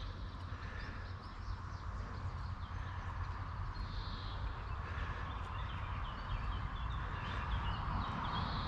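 Outdoor ambience: birds calling now and then, with short calls and a few small chirps, over a low steady rumble.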